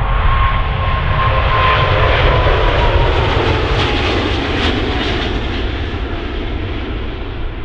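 Jet airliner passing by, its engines a loud rushing noise with a whine that slides slowly down in pitch over the first few seconds, then gradually fading.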